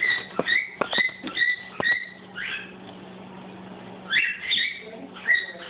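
Cockatiel whistling its song in short high notes: a quick run of notes with sharp clicks among them, a pause of about a second and a half, then more notes from about four seconds in.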